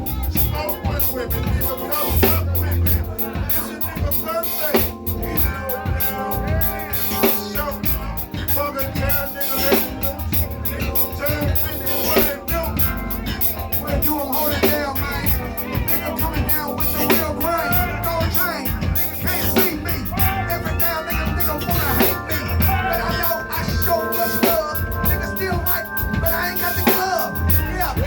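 A live band playing an instrumental groove, with a drum kit keeping the beat under sustained pitched instrument parts.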